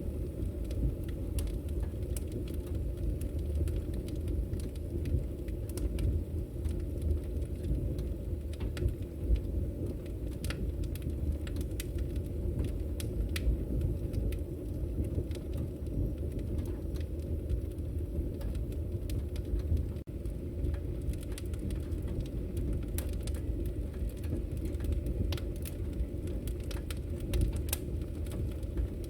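Wood fire burning: a steady low rumble from the flames with frequent sharp crackles and pops from the burning wood.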